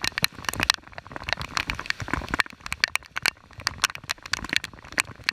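Raindrops striking a GoPro camera housing in irregular sharp ticks, several a second, over the hiss of rain on the river.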